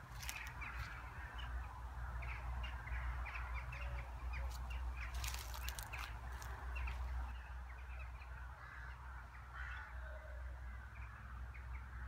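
Birds chirping in short, quick calls scattered throughout, over a steady low rumble, with a few sharp clicks near the start and in the middle.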